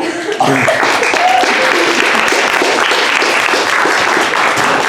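Audience applauding, starting about half a second in and fading out just after the end.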